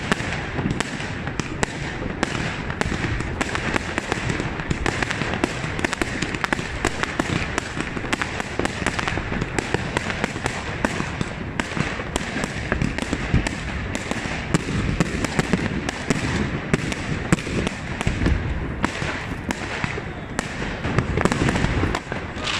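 Many fireworks going off at once: a dense, unbroken barrage of bangs and crackles from aerial shells bursting overhead.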